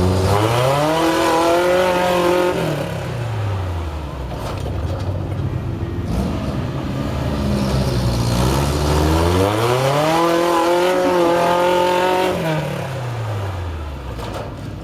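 Off-road truck engine revved hard twice. Each time the pitch climbs, holds high for a couple of seconds, then falls back. The truck is being given throttle to climb out of a rocky pit.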